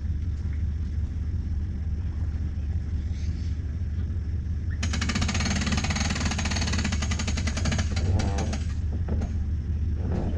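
Bass boat outboard motor idling with a steady low hum, then throttled up for about four seconds in a rapid, pulsing burst as it pushes the boat up onto the trailer bunks, before settling back toward idle.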